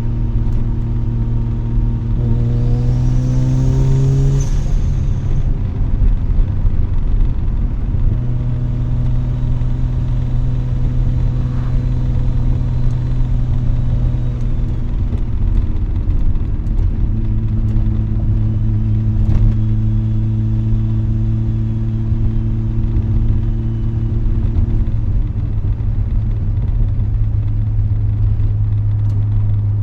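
Mazda RX-7 rotary engine heard through an RE Amemiya Dolphin Tail exhaust from inside the cabin with the windows down. The engine rises in pitch under acceleration from about two seconds in, drops abruptly at about four seconds as the revs fall, then settles into a steady cruising drone.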